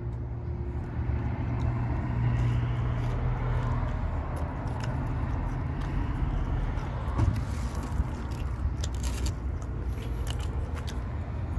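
Biting into and chewing a chicken McNugget, with crinkling from peeling open a plastic dipping-sauce cup near the start and scattered small crackles, over a steady low background rumble.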